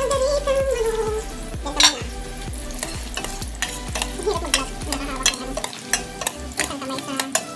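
A metal ladle stirs and scrapes a thick stew in a stainless steel pot, with many sharp clinks against the pot, the loudest knock about two seconds in. The stew sizzles as it heats on the stove.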